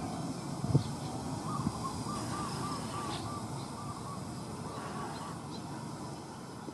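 A bird calling in a quick run of short repeated notes, with shorter runs after a pause, over a steady outdoor noise haze. A single sharp thump comes just under a second in.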